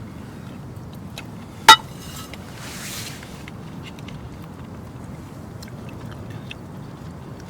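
Steady low rumble with faint scattered ticks, and one sharp, loud clink with a brief ring nearly two seconds in.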